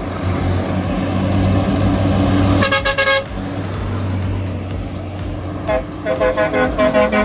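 Truck engine running with a steady low drone, with a horn blast lasting about half a second near the middle, then a quick string of short horn toots near the end.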